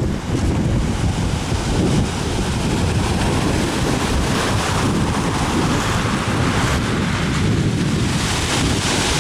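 Rough, stormy sea surf crashing in continuously, with strong wind buffeting the microphone.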